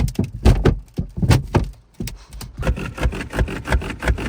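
A quick series of knocks and clattering impacts, irregular at first, then faster and more closely packed after about two and a half seconds.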